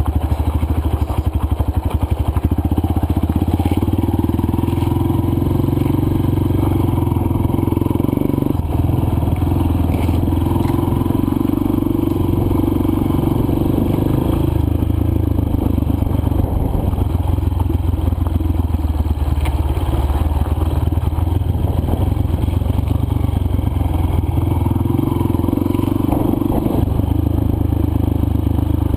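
Dirt bike's single-cylinder four-stroke engine running at steady, moderate throttle along a loose trail, the engine note easing off and picking back up a few times, with some clatter from the bike over the rough ground.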